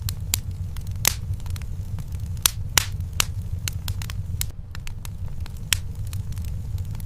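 Wood fire burning in a fireplace: irregular sharp crackles and pops, a few louder snaps among them, over a steady low rumble.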